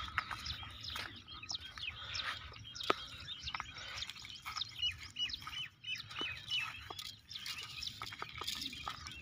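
Small birds chirping and calling in short, quick notes, with a run of similar repeated chirps about four to six seconds in. A few sharp clicks sound now and then, the loudest about three seconds in.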